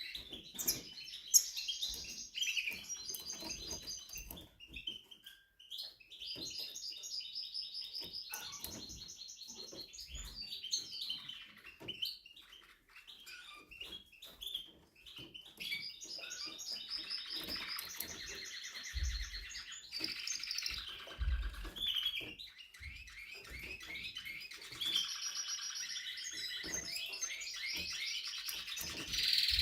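Spanish Timbrado canary singing: long runs of rapid trills and rolled repeated notes, broken by short pauses.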